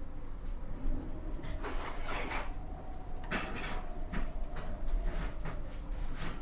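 Kitchen cooking clatter: scattered knocks and clunks of pots, utensils or cupboard doors, with a cluster about two seconds in and another past the middle, over a steady low background hum.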